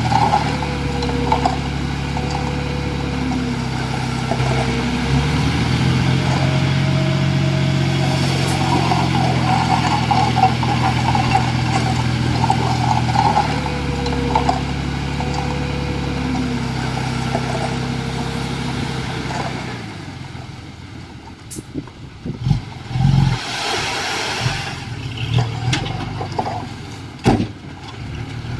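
Komatsu D51EX bulldozer's diesel engine working under load, its pitch sagging and recovering. About 20 seconds in it drops away, leaving quieter running with a few sharp clanks and knocks.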